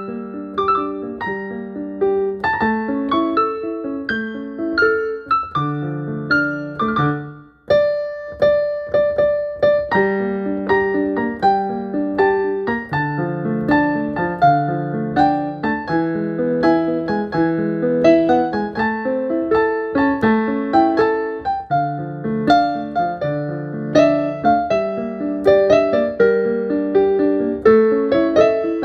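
Solo piano playing a melody over a repeating low accompaniment, with a short break about a quarter of the way through before the playing picks up again.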